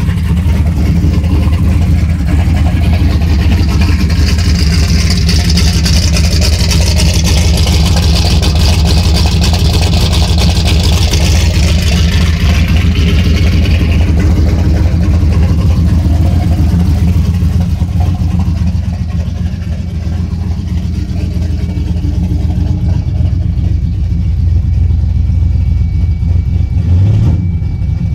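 Car engine idling steadily at about 700–800 rpm from a cold start, a steady low rumble. A higher hiss rides over it for about ten seconds in the middle.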